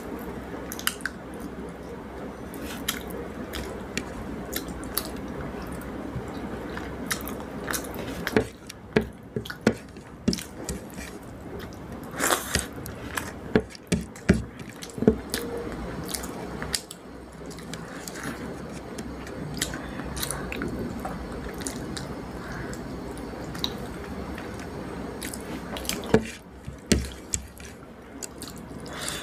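A person eating rice and fish curry: close-miked chewing and wet mouth sounds, with many scattered sharp clicks and taps, thickest in the middle stretch and again near the end.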